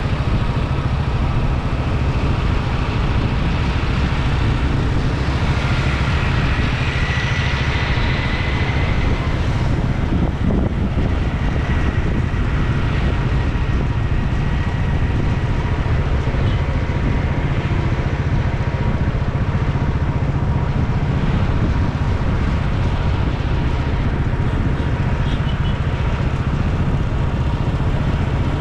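Steady wind noise buffeting the microphone on a moving motorcycle, over the sound of road traffic.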